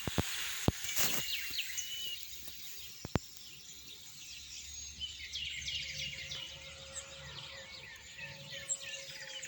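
European goldfinch chicks calling in rapid, high, short chirps that grow busier about halfway through. A few sharp clicks sound in the first few seconds.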